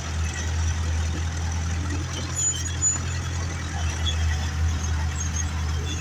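Ursus 385 tractor's diesel engine running steadily under the load of ploughing, a continuous low drone.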